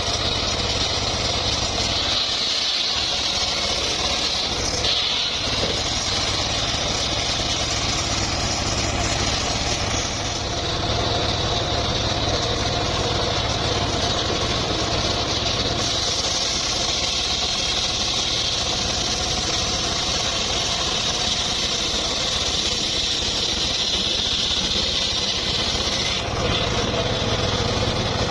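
Engine of wood-sawing machinery running steadily, a low hum under a strong high hiss.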